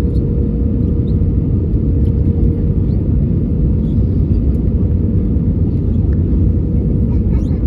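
Steady low rumble of an Airbus A320's engines and rushing air, heard inside the passenger cabin, with a faint steady hum above it.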